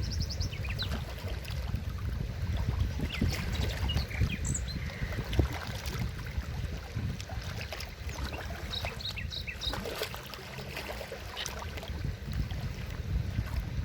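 Forest stream running steadily with a low rumble and trickling water, while small birds chirp briefly now and then over it.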